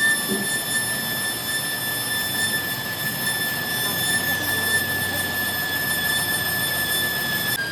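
A machine running with a steady high-pitched whine over a noisy rush; its pitch drops slightly near the end.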